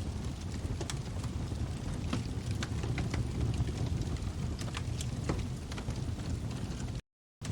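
Log fire burning in a fireplace: a steady low rumble with frequent sharp crackles and pops from the burning wood. The sound cuts out completely for a moment near the end.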